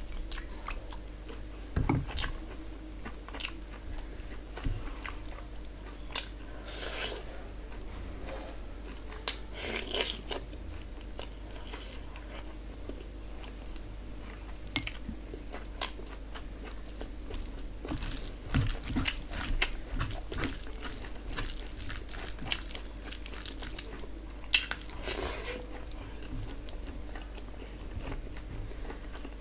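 Close-miked eating sounds: wet chewing, lip smacks and biting on mouthfuls of rice and curry eaten by hand, in irregular clicks with busier stretches about a third and two-thirds of the way through.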